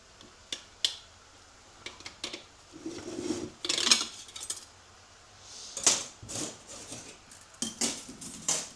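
Metal parts of a 6L80 automatic transmission's clutch pack clinking and clattering in irregular sharp clicks and short rattles as they are handled during disassembly, with the loudest clatters about a third and two thirds of the way through.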